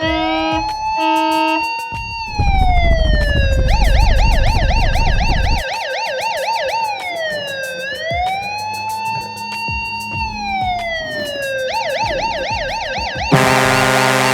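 Electronic police-style siren cycling through its patterns: a brief high-low two-tone at the start, then long rising and falling wails alternating with fast yelping warbles. A deep rumble sits under it from about two to five seconds in, and music with sustained chords cuts in near the end.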